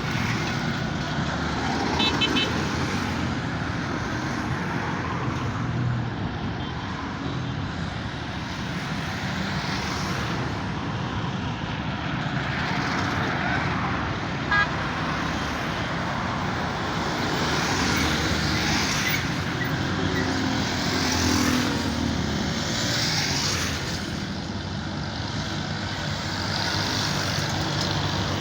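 Large truck running, with steady engine and road noise; a brief sharp click about halfway through.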